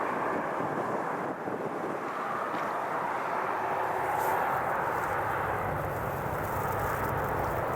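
Steady jet aircraft noise from airliners on the ground at an airport, a continuous rushing sound with no sharp events; a low hum joins about five seconds in.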